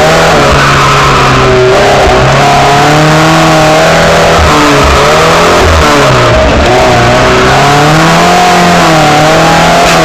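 A car's engine, heard loud from inside the cabin, revs up and falls back over and over as the car is driven hard around a cone course. Its pitch rises and drops every second or two.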